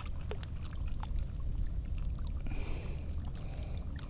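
Water splashing briefly about two and a half seconds in, over a steady low rumble and small scattered clicks, as a caught ladyfish is held in the water to revive it before release.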